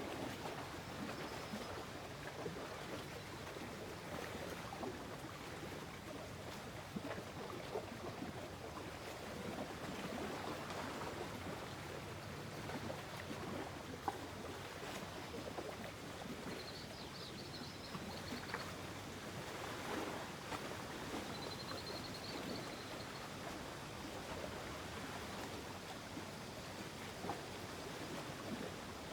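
Lake water lapping and trickling gently at the shore, a steady soft wash. Two faint high bird twitters come a little past the middle.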